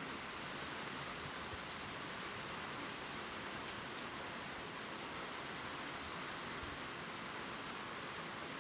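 Steady gentle rain falling on leaves, an even hiss with a few faint drop ticks.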